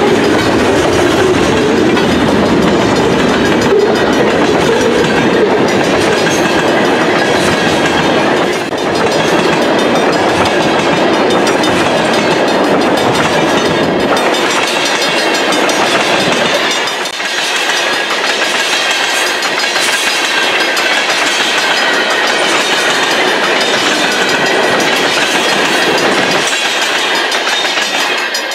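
Freight cars of a long train rolling past close by, their steel wheels clattering over the rail joints in a steady clickety-clack. A thin high whine comes in during the second half as the tank cars go by.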